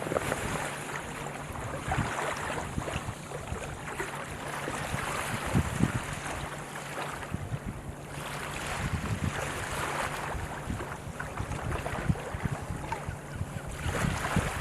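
Surf washing in, with wind buffeting the microphone; the noise swells and eases every few seconds.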